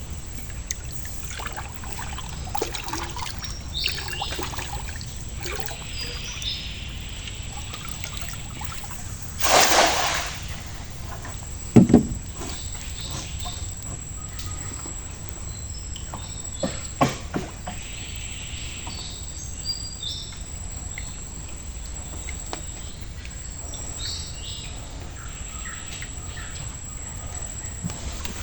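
Birds chirping over a steady hiss of water or rain, with one loud rush of splashing water about ten seconds in and a few sharp knocks soon after.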